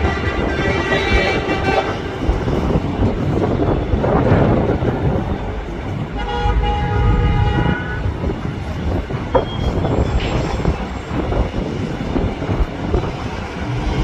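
Jet airliner's engines rumbling steadily, with two brief horn-like tones laid over it, near the start and about six seconds in.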